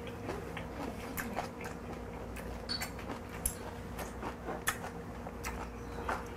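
A person chewing a mouthful of food with the mouth closed, giving scattered small wet clicks and squelches.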